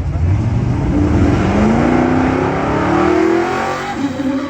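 Engine accelerating: a loud run whose pitch climbs steadily for about three seconds, then eases off near the end.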